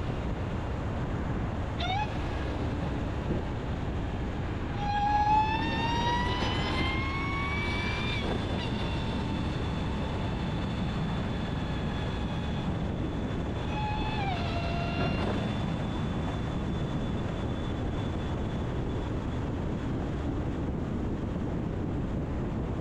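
Dodge Charger Hellcat's supercharged 6.2-litre Hemi V8 on the road, with a steady engine and road drone. About five seconds in, the supercharger whine rises in pitch for about three seconds as the car accelerates. Near the middle it falls sharply as the revs drop.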